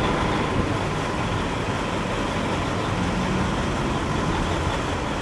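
Steady vehicle engine and road noise, with a low engine hum.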